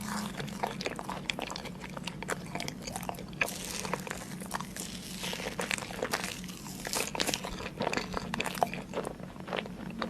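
A person biting and chewing crunchy food close to the microphone, with crisp crackling crunches throughout.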